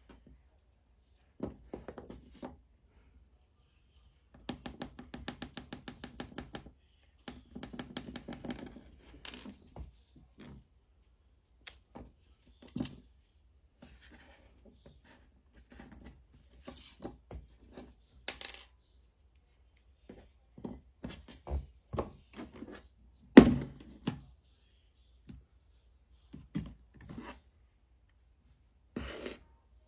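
Scattered clicks, taps and light scraping of small objects being handled at close range, with a quick run of ticks about five seconds in and a single loud knock past twenty seconds.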